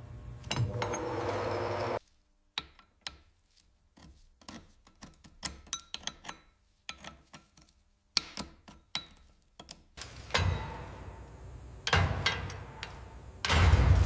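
A run of scattered light metallic clicks and clinks, like parts and tools being handled. A steady mechanical noise with a low hum runs before it and a louder rumbling machine noise comes back near the end.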